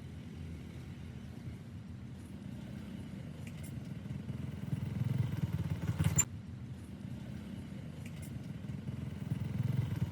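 A steady low motor rumble that swells twice, with a short sharp click about six seconds in.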